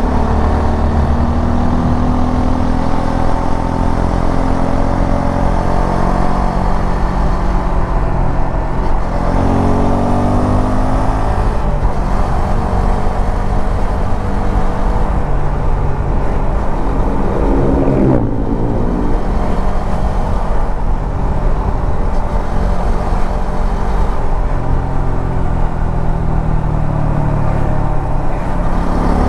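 Suzuki V-Strom 250 SX's single-cylinder engine running under way, its pitch rising and falling with the throttle, over a steady low rumble. There is a quick swing in pitch about two-thirds of the way through.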